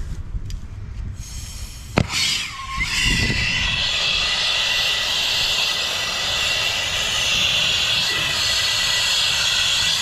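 A turbo torch lit with a sharp click about two seconds in, its flame then burning with a steady, loud hiss.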